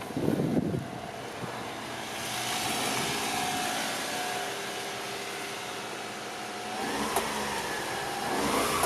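Honda Acty's carbureted 660cc E07A three-cylinder engine running steadily, then revved briefly twice near the end, the pitch rising and falling each time.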